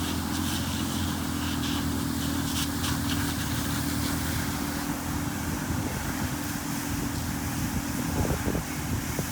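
An engine running steadily with a constant low hum, with wind buffeting the microphone.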